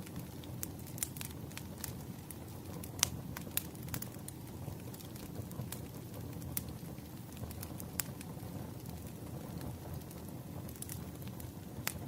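Wood fire crackling, with irregular sharp pops and snaps over a steady low rumble; the loudest pop comes about three seconds in.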